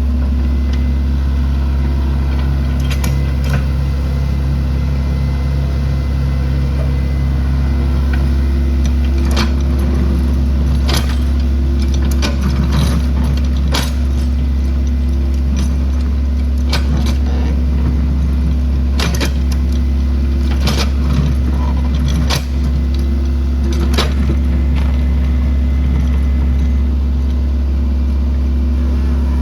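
Excavator's diesel engine running steadily, with scattered sharp metallic clanks and knocks over it, a dozen or so, clustered in the middle.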